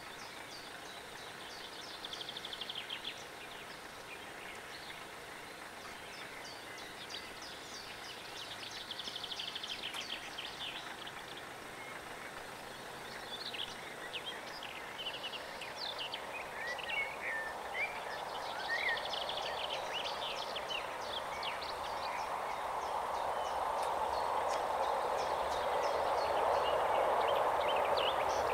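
Songbirds trilling and chirping, while the sound of an approaching LINT 41 diesel railcar grows steadily louder over the second half.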